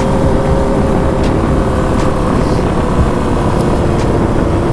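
Dirt bike engine running at a steady, even pitch while riding, over a low rumble of wind and road noise.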